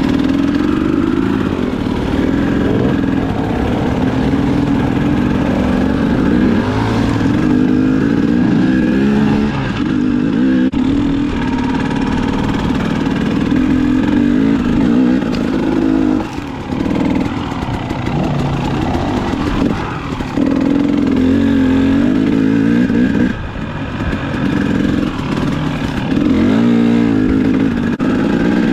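Dirt bike engine running under way, its revs rising and falling with the throttle and easing off briefly about 16 and 23 seconds in.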